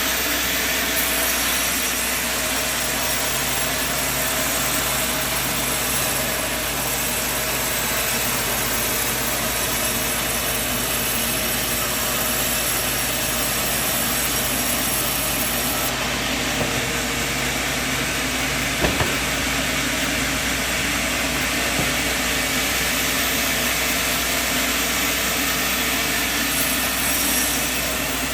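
Sawmill machinery running steadily, with a continuous motor hum and a sharp knock about two-thirds of the way through.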